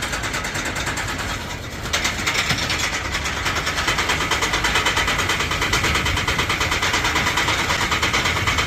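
Engine-driven workshop machinery running with a rapid, even pulse; it gets louder and brighter about two seconds in and then holds steady.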